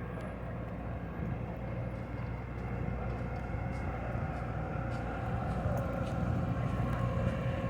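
A vehicle engine running steadily, a low hum with some road or wind noise, slowly getting a little louder.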